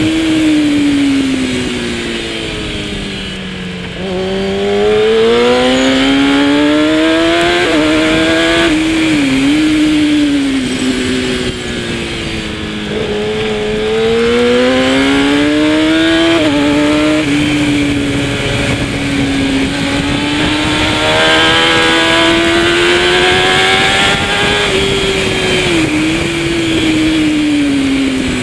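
Kawasaki ZX-10R superbike's inline-four engine at race pace. Revs drop sharply about four seconds in, then climb in stages with quick steps at each upshift. The revs fall and rise again several more times as the bike brakes and accelerates through corners.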